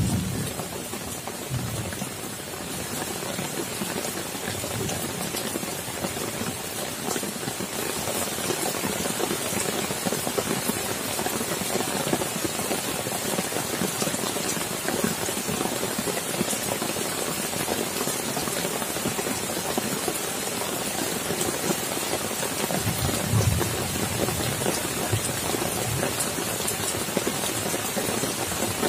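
Steady rain falling on puddled ground, wet grass and leaves, a dense even patter with many small drop ticks. A brief low rumble of thunder rises out of it about three-quarters of the way through.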